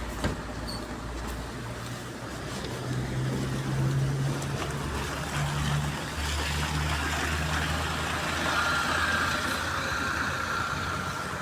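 MAZ-203 city bus engine running, heard from inside the cabin, its hum stepping up in pitch about three seconds in and changing again about six seconds in as the bus drives. A short click comes just after the start, and a faint high whine near the end.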